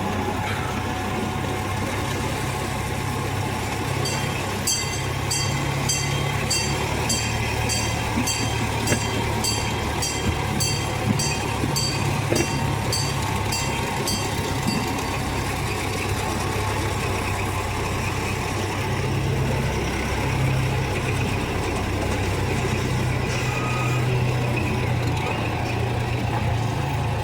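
Zoo train running along its track, its engine and cars giving a steady low rumble. From about four seconds in to about fifteen seconds in, a bell rings repeatedly, about twice a second.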